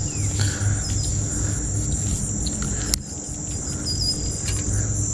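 Steady high-pitched drone of insects, with a few short bird chirps and a single sharp click about three seconds in.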